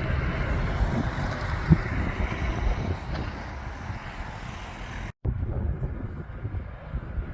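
Heavy lorry engine running as a truck drives past, a steady low rumble with wind buffeting the microphone and a single knock a little under two seconds in. The sound cuts out completely for an instant about five seconds in, then the rumble carries on more quietly.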